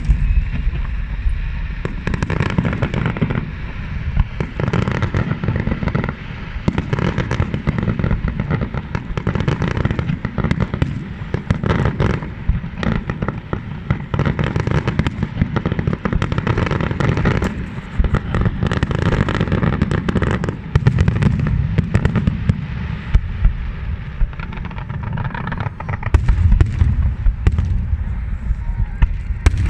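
Large fireworks display going off without a break: a dense, continuous barrage of shell bursts and crackling bangs over a heavy low rumble.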